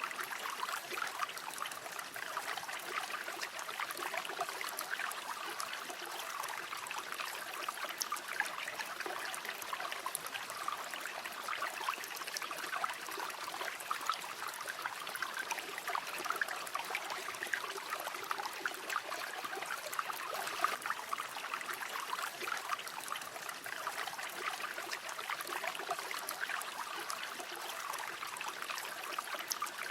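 River water flowing steadily over stones, a continuous babbling rush with fine splashing and trickling detail.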